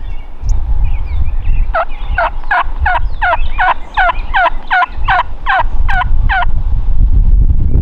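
Turkey yelping: a run of about a dozen evenly spaced yelps, each note dropping sharply in pitch, over a steady low rumble.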